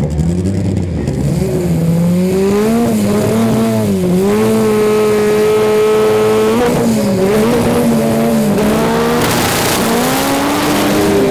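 Drag racing car engine revving hard and held at steady high revs, its pitch dipping briefly several times. A loud hiss of tyre noise builds near the end.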